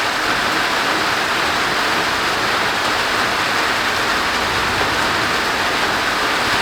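Heavy downpour of rain falling steadily on the roof overhead, a dense even hiss that holds level throughout.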